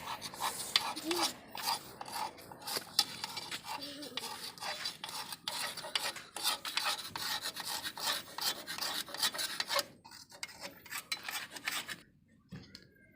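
Rapid rasping scrapes, many strokes a second, like a file or rough tool worked back and forth on a hard surface. They thin to scattered scratches about ten seconds in and nearly stop near the end.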